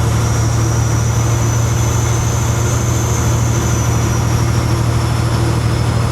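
Kenworth W900 semi truck's diesel engine running steadily, a loud even low drone, with a faint high whine above it.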